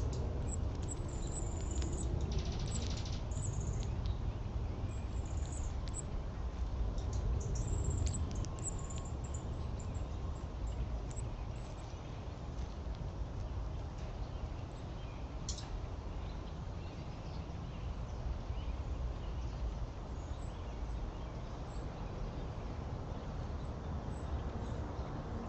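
Small birds chirping in short, very high-pitched notes, several in quick succession over the first half and one more near the middle, over a steady low background rumble.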